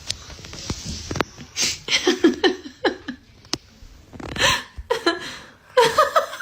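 A person's short, broken vocal sounds, hiccup- or laugh-like bursts and breaths, with a few sharp clicks between them.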